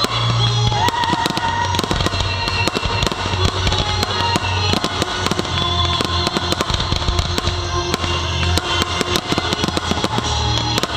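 Fireworks display going off in a rapid, continuous string of bangs and crackles, with music playing underneath.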